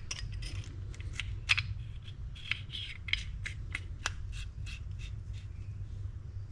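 Small parts of a spinning fishing reel being handled and fitted during reassembly: a run of light, sharp clicks, about three a second, with scraping between them.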